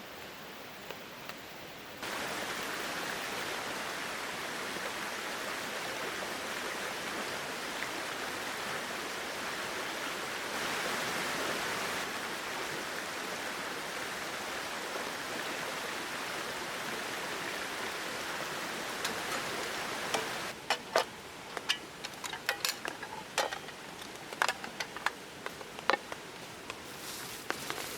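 Steady rushing of water. About three-quarters of the way in it drops back and a run of sharp, irregular clicks and knocks takes over.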